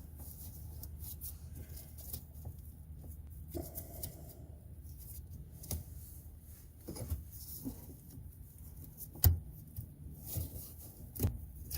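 Scattered small clicks and knocks of plastic clips and parts being worked loose by hand, with one sharp loud click about nine seconds in, over a low steady hum.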